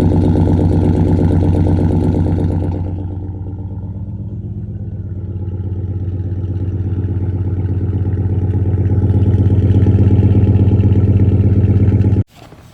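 1999 Chevy Tahoe's 350 small-block V8 running on a cold start, exhausting through a catless straight pipe into a Flowmaster Super 10 muffler. The exhaust note drops noticeably about three seconds in, builds back up gradually, and cuts off abruptly near the end.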